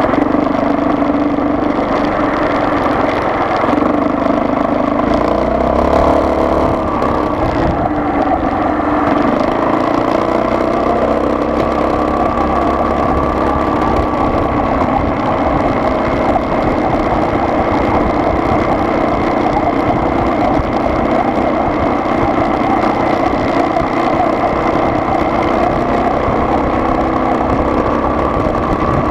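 Car engine and road noise while driving, steady throughout, with a shift in the engine note about six seconds in.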